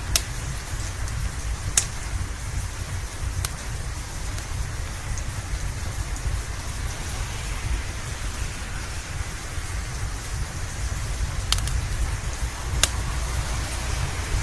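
Steady rain with a deep low rumble under it, and about five sharp crackling pops from a wood fire scattered through it.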